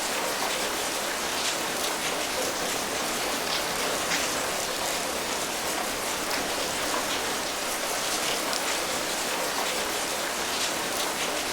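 Steady rain falling, an even hiss of many fine drop patters with no pauses or change in strength.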